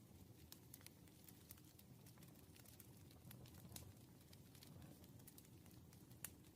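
Near silence: a faint low room hum with scattered soft clicks and taps, a slightly sharper click near the end.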